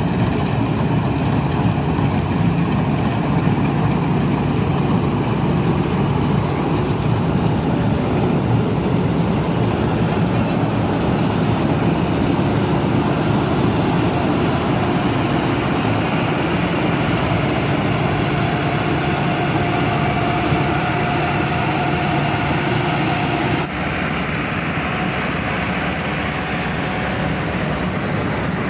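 Tractor engine running steadily while harvesting paddy. About 24 seconds in, the sound changes abruptly and the engine runs on at a slightly lower level.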